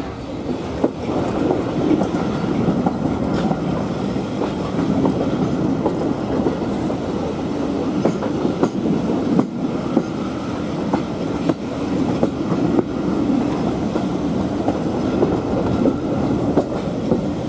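Heritage passenger train coach running along the track, heard close up from an open carriage window: a steady rumble with wheels clicking over rail joints at uneven intervals.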